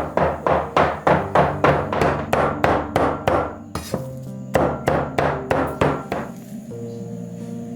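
Rapid chopping on a wooden cutting board, about four or five strokes a second, in two runs with a short break between, over background music.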